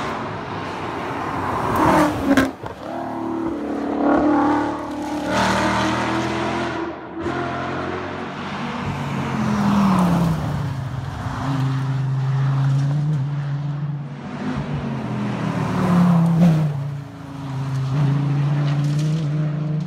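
High-performance sports cars driving past one after another at speed, their engines revving and dropping in pitch as each goes by; among them a Dodge Viper's V10 about halfway through. A brief sharp crack about two seconds in.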